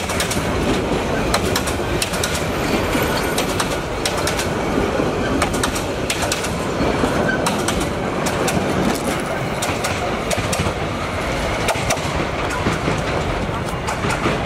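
Passenger coaches of a commuter train rolling past at close range: steady rumbling wheel and track noise with many sharp clicks as the wheels clatter over the rail joints.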